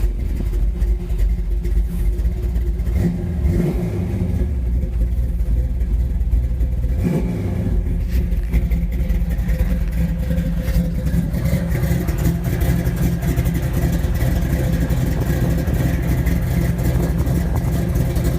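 A 1962 Chevrolet Corvette's hot small-block V8 catches and runs steadily. It is the sign that the starter now engages the newly replaced flywheel ring gear properly.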